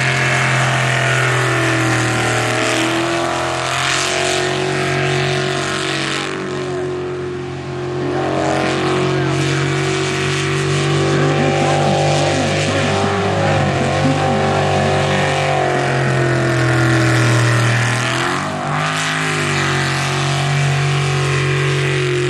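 Sprint jet boat engines running hard at race speed, a loud steady engine note that bends in pitch as the boats throttle through the course. The note dips and climbs again about three-quarters of the way through.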